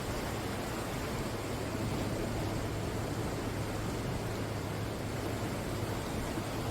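Ocean surf washing steadily against the shore, an even rush of noise with no single wave standing out.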